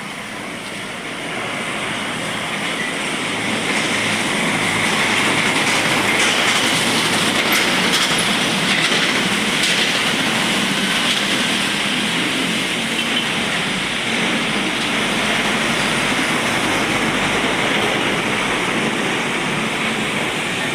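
Traffic on a wet road in drizzle: a steady hiss of tyres through water under the rumble of passing container trucks, building over the first few seconds and then holding loud.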